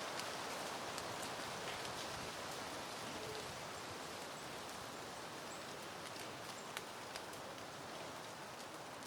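Soft wind rustling through peony plants: a steady hiss with scattered faint ticks, easing slightly towards the end.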